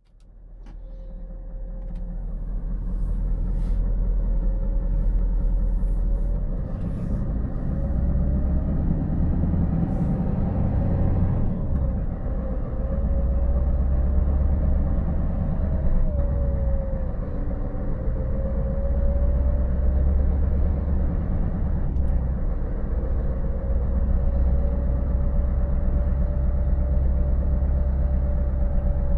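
Scania 590S truck's V8 diesel engine running under way, a steady low drone with road noise, fading in at the start. The engine note steps up in pitch a few seconds in and dips briefly twice later, with a faint wavering whine above it.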